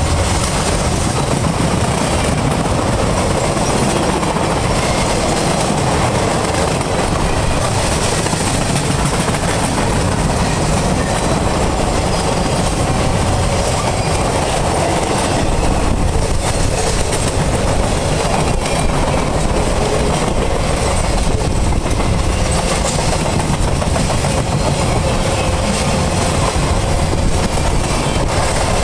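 Freight train flatcars loaded with military vehicles rolling past: a loud, steady noise of steel wheels running on the rails.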